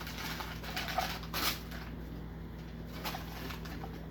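Rustling and crackling of takeout food packaging being handled, with a sharp crackle about a second and a half in, over a steady low electrical hum.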